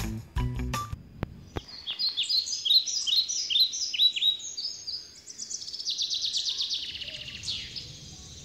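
A songbird singing: a run of quick, downward-sweeping high chirps that turns into a fast trill. The last notes of background music fade out about a second in.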